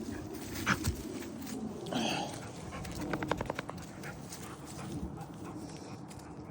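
Rottweiler puppy making dog sounds: a short whine about two seconds in, then a quick rattling run of pulses, among light clicks and scuffles.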